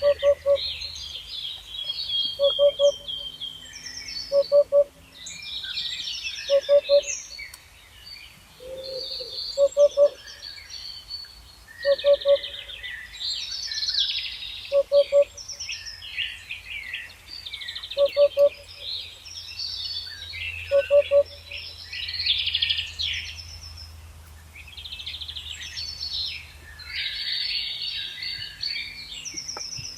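Several birds chirping and singing together. Through it runs a lower call of two or three short, clipped notes, repeated every couple of seconds, over a faint steady low hum.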